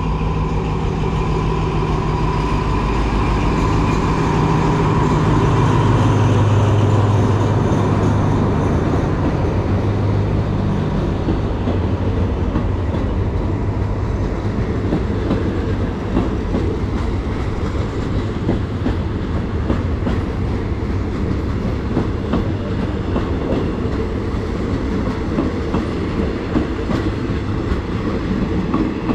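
Diesel train going by: the engine hum is loud for the first ten seconds or so, then gives way to a steady rhythmic clatter of the cars' wheels over the rail joints.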